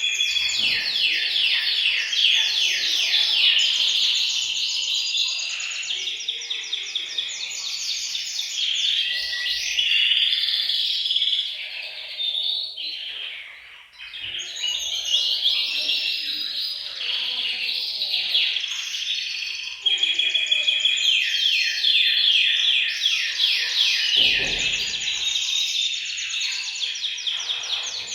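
Several male canaries singing together in a dense chorus of fast, high trills and rolls, the song of males in breeding condition. The chorus dips briefly about halfway through.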